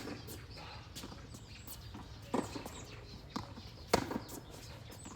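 Tennis rally: a few sharp pocks of a tennis ball struck by rackets and bouncing on the court, spaced about a second or two apart, the loudest about four seconds in.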